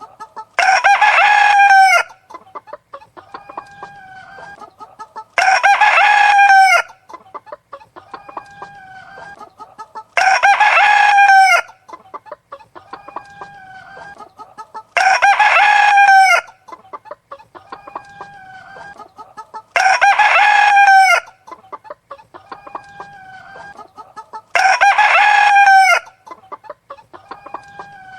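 A rooster crowing six times at even intervals about five seconds apart, each crow about a second and a half long, with quieter hen clucking in between.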